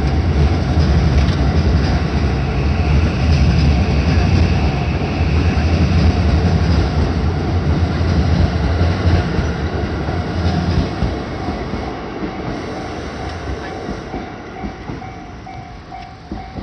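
JR West 323 series electric train passing over a level crossing, its wheels and running gear loud at first, then fading after about eleven seconds as it moves away. The crossing's warning bell rings steadily throughout, a repeating tone of about two strikes a second that stands out once the train noise dies down.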